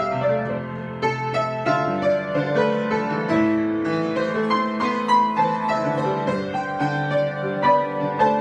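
Piano being improvised: a steady flow of notes and chords over held low notes.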